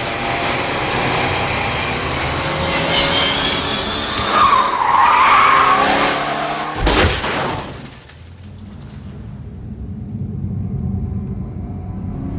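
Film car-chase sound effects: car engines running hard, tyres squealing about halfway through, then a sharp crash-like impact, after which an engine rises again more quietly.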